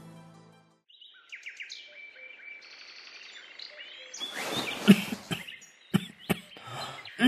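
Small birds chirping and twittering as an ambience sound effect, starting about a second in after a music cue fades out. From about four seconds in, a rustling background with several short, sharp sounds joins the birdsong.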